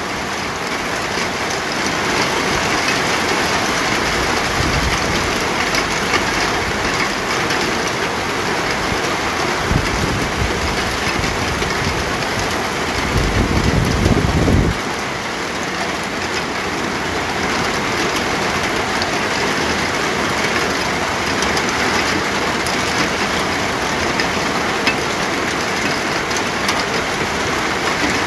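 Steady, heavy rain falling, an even hiss with no break. Low rumbles swell in the bass about ten seconds in and again around thirteen to fifteen seconds, the second cutting off suddenly.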